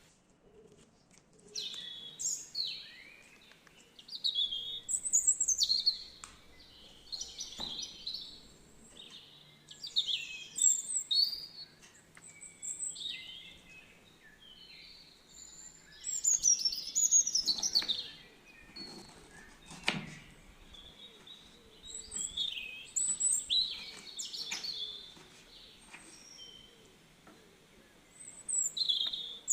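Birds chirping and singing in short, quick phrases that come every few seconds, with a few soft knocks in between.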